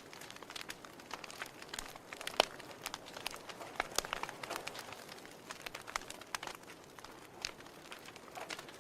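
Wood fire crackling in a fireplace: irregular pops and snaps of burning logs over a soft hiss, with one sharper pop a little over two seconds in.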